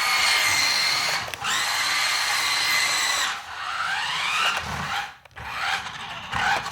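Small electric motor of a Tyco Twin Turbo RC car running at full speed with a steady high whine. It cuts out briefly about a second in, runs again, then drops off and gives a few rising spin-ups and short blips near the end.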